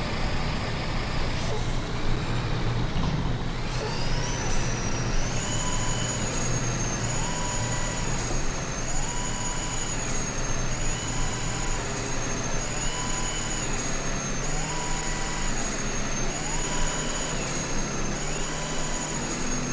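Truck driving on the road: a steady engine drone and road noise. About three seconds in, a high thin whine rises, then wavers up and down in a regular cycle about every two seconds.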